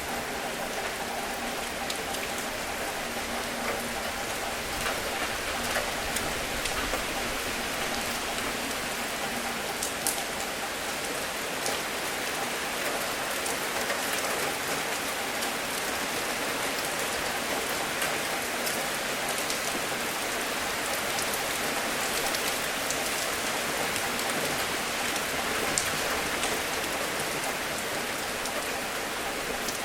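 Steady gentle rain falling, an even hiss with scattered louder individual drops ticking.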